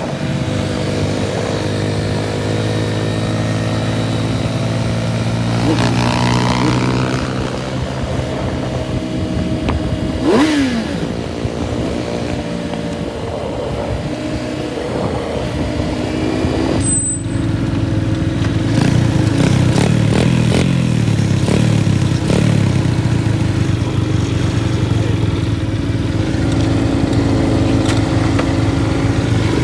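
Small minibike engine running under way, holding a fairly steady pitch, then rising and falling with the throttle in the second half.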